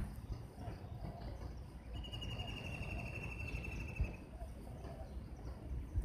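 A bird's high, rapid trill lasting about two seconds and falling slightly in pitch, over faint outdoor ambience with soft repeated lower calls. A sharp knock at the very start.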